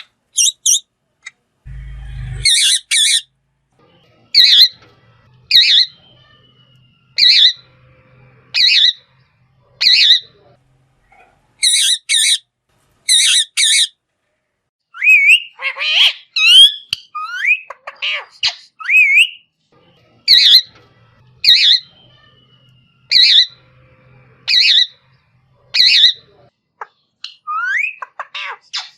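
Green parrot giving loud, harsh squawks, repeated about every second and a half in runs, with a stretch of whistled calls that glide up and down in the middle and near the end.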